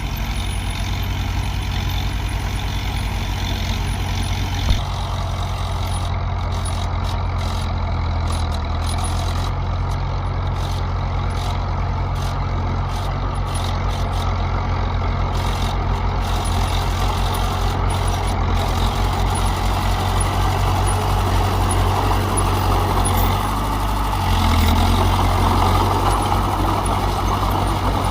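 Heavy diesel engine of earthmoving machinery running steadily, with a low, even engine note. There is one sharp click about five seconds in, and the engine gets louder in the later part.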